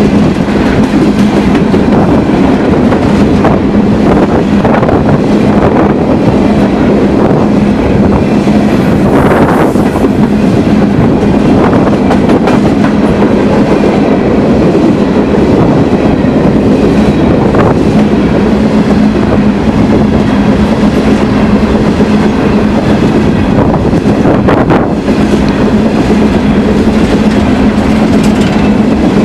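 A train rolling past at close range, loud and steady, its wheels clattering over the rail joints.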